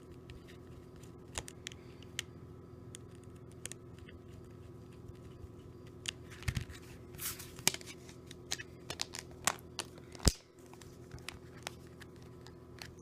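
Scattered small clicks and taps of a Nokia Lumia 635 smartphone being handled and put back together, with the sharpest click about ten seconds in, over a steady low hum.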